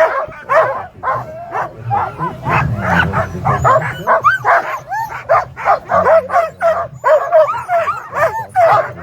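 A team of Alaskan husky sled dogs in harness barking and yipping rapidly without pause, several voices overlapping with rising and falling yelps: the excited clamour of a team straining to run at a race start.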